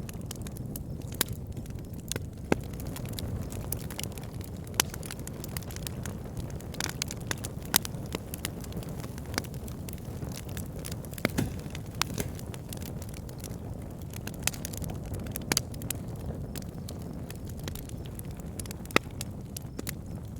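Wood campfire crackling, with sharp pops at irregular moments over a steady low rush of wind and a flowing stream.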